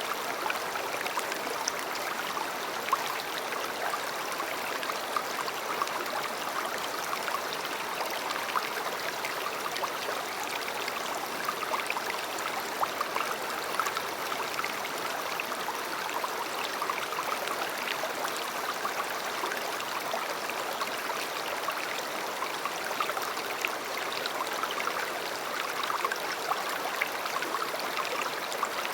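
River water running: a steady rush of flowing water, dense with small splashes and trickles.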